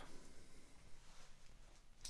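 Near silence: faint room tone with a light, even hiss.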